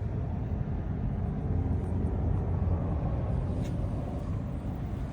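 Steady low outdoor rumble, with a faint click about two-thirds of the way through.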